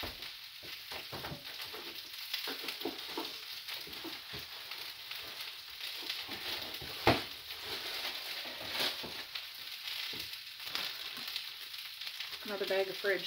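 Sausages and a potato hash sizzling in frying pans on an electric stove, still frying in the pans' heat just after the burners were switched off. One sharp knock about seven seconds in, with fainter clicks scattered through.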